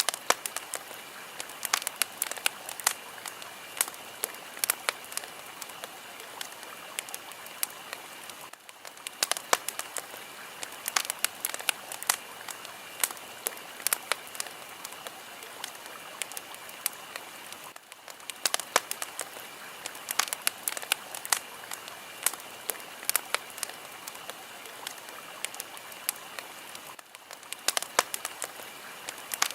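Wood fire crackling: a steady hiss with frequent sharp pops and snaps, the loudness dipping briefly about every nine seconds.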